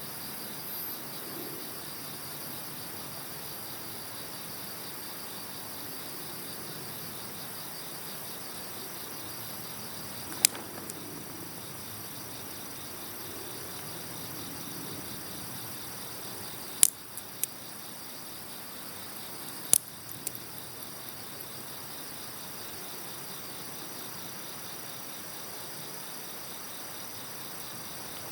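Campfire burning, with several sharp wood pops in the middle stretch, over steady, pulsing cricket chirping.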